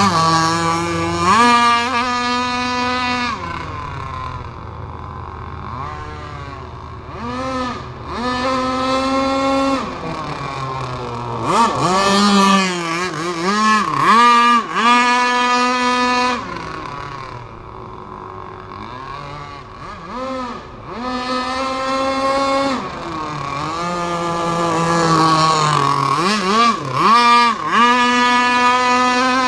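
Rev Unlimited 26cc two-stroke petrol engine of a radio-controlled boat, lightly tuned, being revved up and down: the pitch climbs to a high note, holds for a couple of seconds, then drops back, about five times over.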